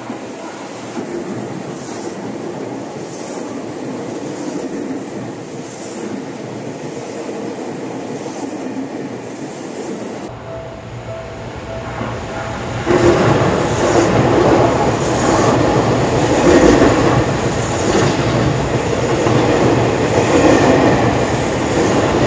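Seibu 001 series Laview limited express electric train running through the station, with a steady rumble of wheels on rails. About halfway through it jumps to a much louder, close pass, with the wheels clattering in a repeating rhythm and some squeal.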